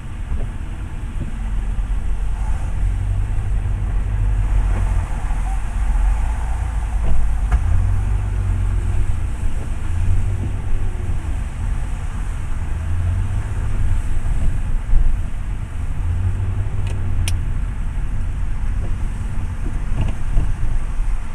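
Steady road and engine noise of a moving car heard from inside the cabin, a deep rumble with the engine's pitch rising and falling a few times.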